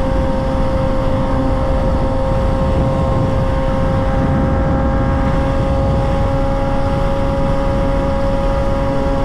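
Motorcycle engine holding one steady note while cruising at constant speed, over heavy low wind rush on the microphone.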